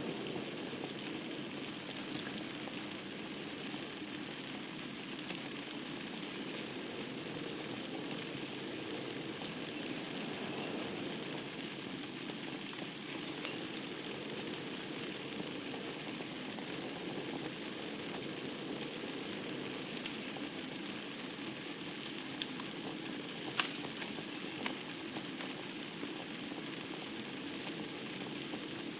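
Wood fire burning in a fireplace: a steady low rush of flame with scattered sharp crackles and pops from the burning logs, a few louder pops in the second half.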